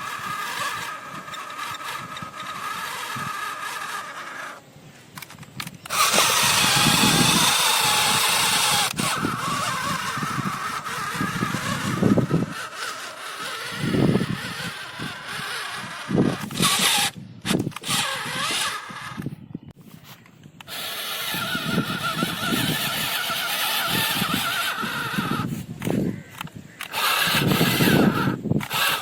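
Small model tractor's motor and geared drive whining as it runs, the pitch shifting with load. It cuts out and starts again several times.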